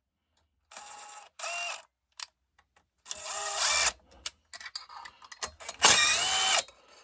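A power screwdriver or drill running in about four short bursts, each spinning up in pitch, with small clicks of parts and tools between them.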